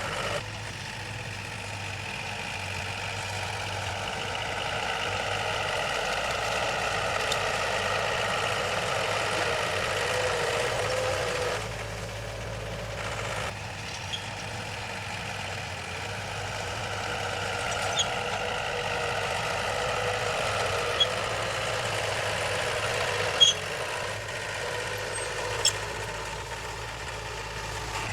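Heavy diesel engine of earth-moving machinery running steadily. A few short, sharp clicks come in the second half.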